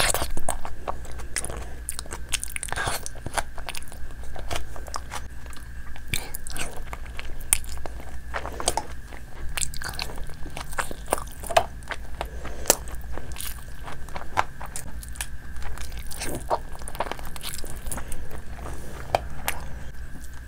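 A person biting and chewing spicy gravy chicken lollipops eaten by hand: irregular crunches and mouth clicks throughout.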